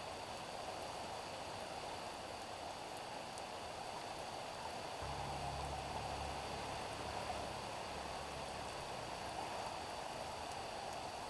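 Steady rain falling on a street, an even hiss. About halfway through, a low rumble joins in.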